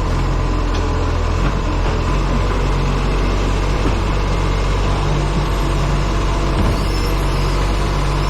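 Diesel engine of an Acco refuse truck with a Bucher body running steadily, heard through heavy wind noise on a camera mounted on the front of the truck.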